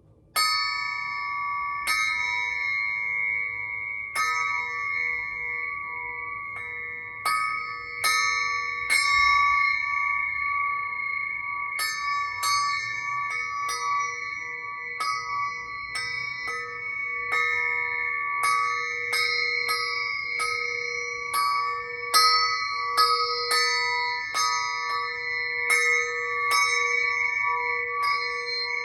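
Crystal singing pyramid struck again and again with a small stick, ringing with several steady overlapping tones. The strikes come about every two seconds at first, then faster, roughly one or two a second, from about halfway through.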